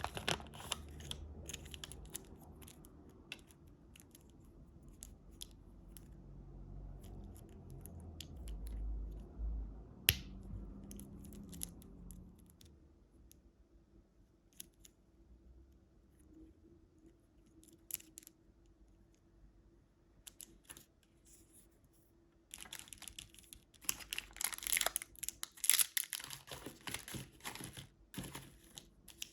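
Sweet wrappers being handled and torn open: crinkling and tearing of packaging. It is sparse through the middle, with one sharp click about ten seconds in, then dense crinkling and tearing over the last several seconds.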